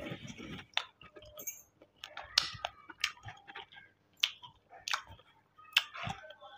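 A person chewing a mouthful of curry rice and mutton with the mouth open, wet and smacking, with about half a dozen sharp lip smacks spread through.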